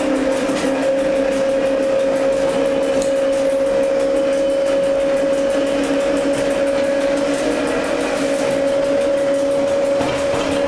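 Electric mountain railcar running downhill, heard from inside the carriage: a steady whine that creeps slightly up in pitch over the rumble and rattle of the wheels on the track.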